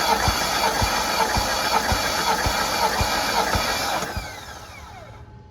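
BMW M62TU 4.4-litre V8 cranking on its starter motor for a compression test, without firing. It makes a steady whirr with an even low thump about twice a second, and the cranking stops about four seconds in as the starter winds down with a falling whine.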